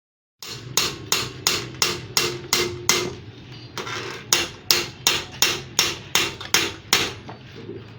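Hammer blows in a steady rhythm, close to three a second: a run of about seven, a pause of about a second, then a run of about eight more.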